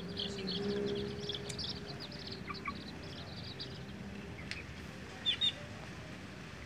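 Lovebirds chirping: a quick run of short, high chirps for about the first two seconds, then scattered chirps, with two louder ones near the end.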